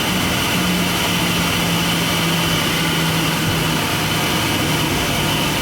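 Steady cabin drone inside a small airliner, with a constant low hum running under an even rush of air-system and engine noise.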